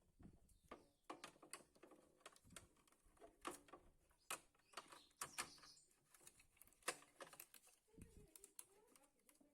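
Light, irregular clicks and taps, like small tools and parts being handled during work on the planer. Near the end a dove coos faintly.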